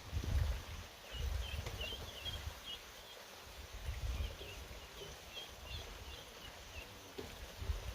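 Small birds chirping in short, quick twittering calls, over a low rumble of wind on the microphone.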